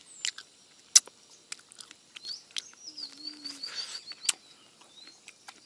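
A small bird chirping in a quick run of short high notes about two seconds in. A few sharp clicks, the loudest about a second in, are scattered through it.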